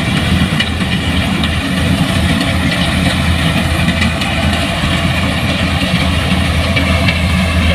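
Large engine of heavy farm machinery running steadily at a constant speed, a low hum with a whine above it.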